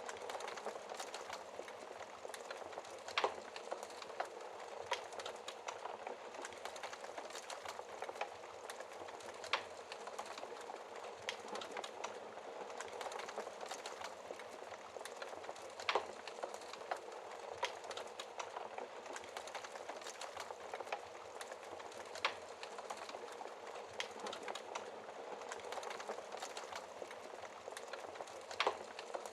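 Wood fire burning in a fireplace: a steady hiss with constant fine crackling and a few sharper pops from the burning logs.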